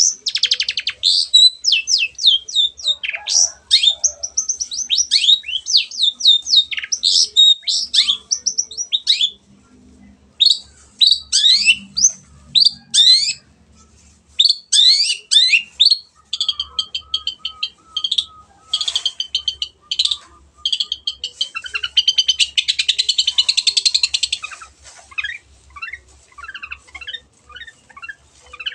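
Long-tailed shrike (cendet) singing a fast, varied song of rapid sweeping chirps and trills, with a short pause in the first half and a harsh, buzzy rattle about three-quarters of the way through.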